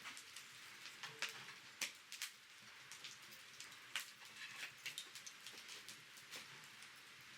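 Wood fire crackling faintly, with irregular sharp pops and snaps several times a second.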